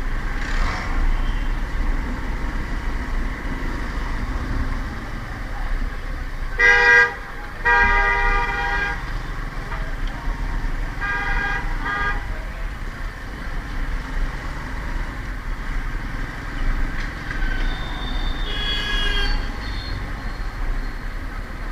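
Road traffic heard from a moving motorbike: a steady low rumble of engine and road noise, with vehicle horns honking: two long honks about a third of the way in, another around halfway, and a higher-pitched horn near the end.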